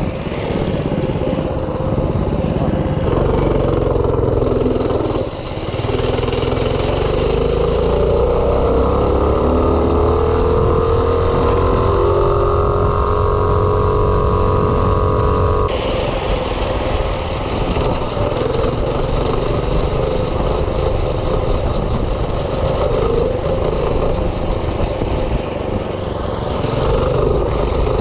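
Small minibike engine running under way. Its note climbs steadily for about ten seconds as it accelerates, then breaks off abruptly about sixteen seconds in, and a steady engine sound carries on.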